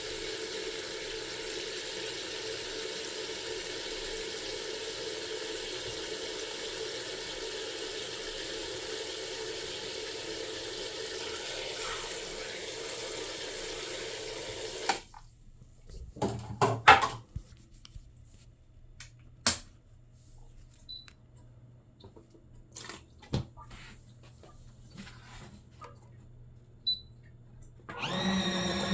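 Mini washing machine running, its motor humming steadily with water churning in the tub, then cutting off abruptly about halfway through. Scattered clicks and knocks follow.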